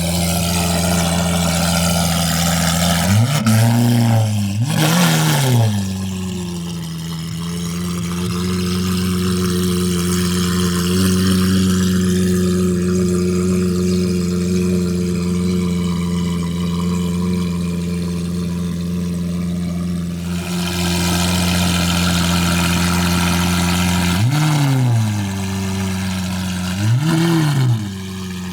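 Lamborghini Aventador's 6.5-litre V12 on a Gintani F1 straight-pipe exhaust with an E85 tune, idling steadily. It is blipped twice in quick succession a few seconds in and twice again near the end, each rev rising sharply and falling straight back to idle.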